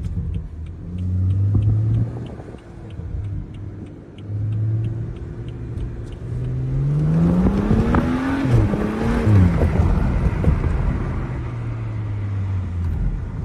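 2012 BMW 335i's turbocharged straight-six running with two short swells in engine note. It then climbs steadily in pitch for about two seconds, drops back and settles into a steady drone.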